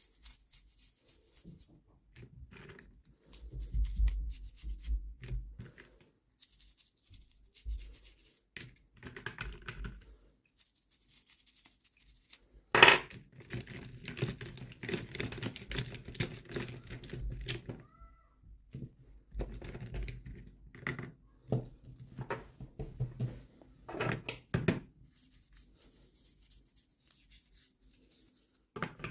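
Hands unboxing and handling miniature toys and their packaging: scattered rustling, tearing and scraping with small knocks and clicks, and one sharp knock about halfway through.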